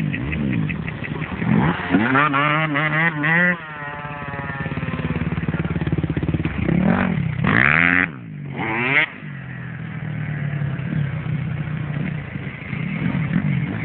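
Motocross dirt bike engines revving, the pitch climbing and falling as the throttle opens and shuts, with two loud bursts, one about two to three seconds in and another around seven to nine seconds in, briefly cut off in the middle.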